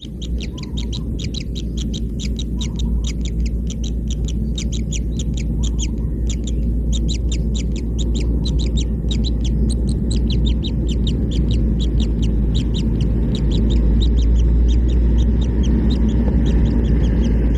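Kingfisher chicks begging: a rapid series of short, high, falling calls, about five a second, with a couple of brief breaks, over a steady low rumble.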